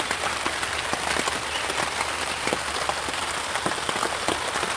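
Rain falling on a tarp tent: a steady hiss with many separate drops tapping on the fabric.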